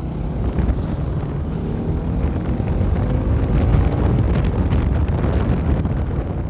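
Bajaj Pulsar NS200's single-cylinder engine running under way, with wind rushing over the microphone; the engine note rises over the first few seconds as the bike accelerates.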